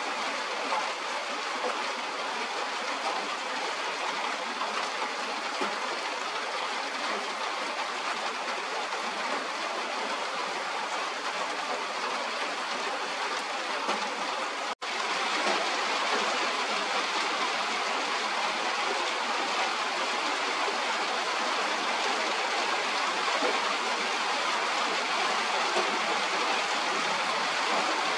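Steady rain falling, an even hiss with no distinct drops or tones. It cuts out for an instant about halfway through and resumes slightly louder.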